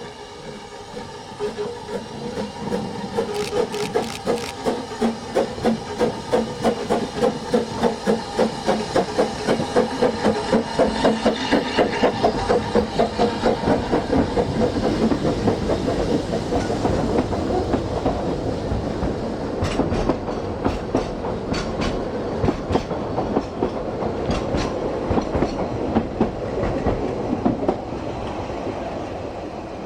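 Narrow-gauge Double Fairlie steam locomotive working a train past, its exhaust beats coming in a quick, even rhythm. After about halfway the beats give way to the rattle and clicks of carriage wheels over the rail joints.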